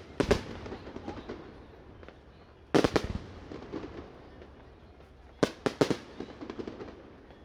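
Fireworks shells bursting overhead in three volleys: a couple of sharp bangs at the start, a cluster of bangs about three seconds in, and three or four quick bangs about five and a half seconds in, each trailed by smaller crackling pops and a fading rumble.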